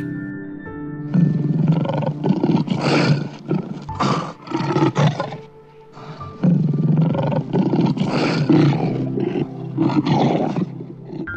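Male lion roaring in two runs of short, repeated roars, the second run starting about six seconds in, over soft background music.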